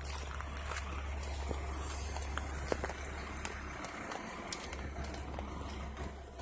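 Semi-truck diesel engine idling as a low steady rumble, with a few faint scattered clicks over outdoor noise.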